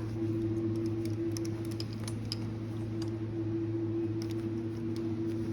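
A steady low mechanical hum at one constant pitch, with scattered faint clicks and taps.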